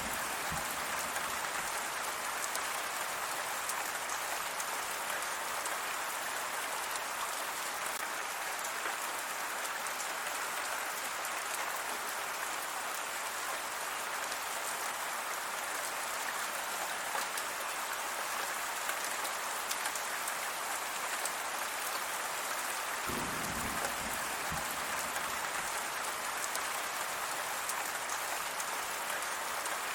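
Steady rain falling on a surface: an even hiss with many small drop patters. About two-thirds of the way through, a brief low rumble sounds under the rain.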